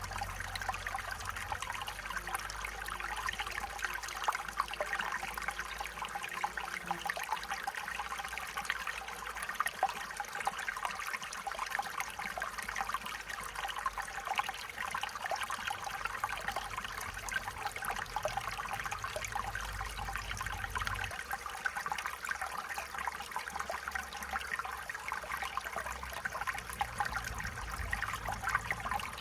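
Small stream trickling and babbling over stones, a steady bright splashing with many little gurgles.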